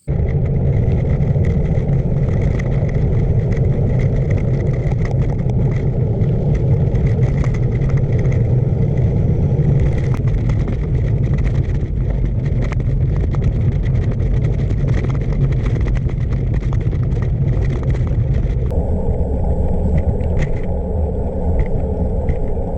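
Wind rushing over the microphone of a camera on a moving gravel bike, with the tyres clattering over the surface. The sound shifts about 19 seconds in.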